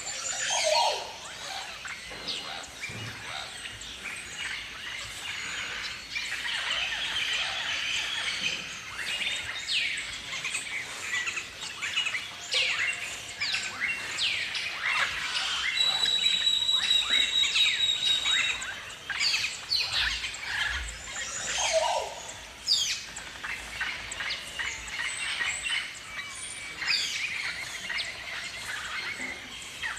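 A flock of galahs calling, with many short, overlapping high calls that sweep sharply in pitch. A steady high tone is held for a few seconds around the middle.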